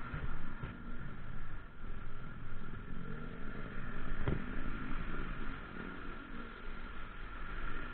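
A motor vehicle running, with a low rumble and a steady high tone throughout; a single sharp knock about four seconds in.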